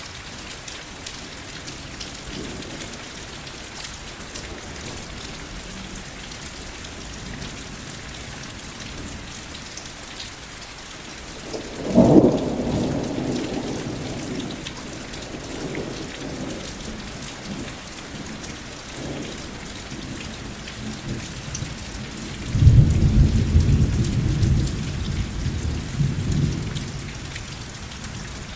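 Steady rain falling, with thunder: a sudden crack that rumbles away about twelve seconds in, and a longer, deeper rumble rolling for several seconds near the end.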